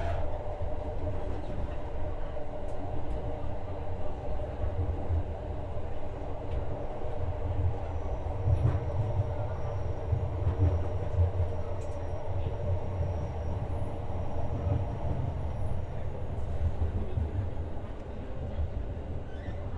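Interior of a JR West 125 series electric railcar running along the line: a steady rumble of wheels on rail with a humming drone. Faint high-pitched whine tones are heard through the middle.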